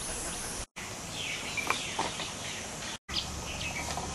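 Outdoor riverside ambience with birds chirping and calling, some calls sliding downward, over a steady background hiss. The sound drops out briefly twice where the footage is cut.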